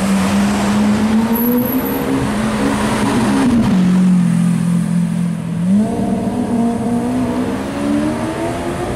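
Lamborghini Aventador's V12 engine running at low revs as the car rolls slowly past in traffic. The note climbs a little, drops back about midway, then rises again in a series of gentle revs.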